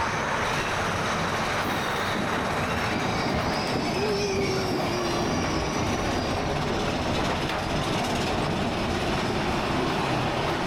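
Big Thunder Mountain Railroad mine-train roller coaster cars running on the track: a steady, loud rattle and rumble of wheels on rails, with a few faint squeals.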